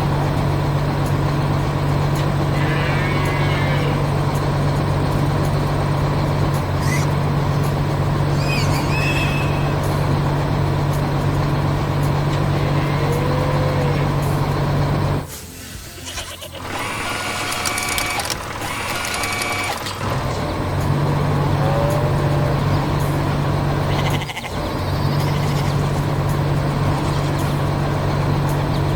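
Large farm machine engine running with a steady low drone, dropping out for several seconds about halfway through, when a higher steady tone sounds instead, and again for a moment near the end. Short animal bleats come in now and then over it.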